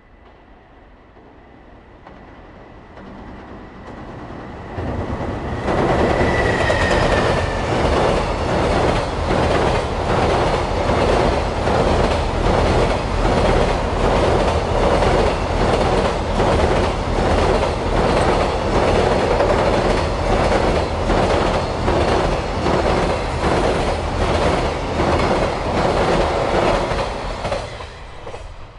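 JR Freight EF210 electric locomotive and its long train of container wagons crossing a steel girder bridge. The train grows louder as it approaches, then after about five seconds comes a loud rumble with a steady rhythmic clatter of wheels over the rail joints. The sound drops off suddenly near the end as the last wagon clears the bridge.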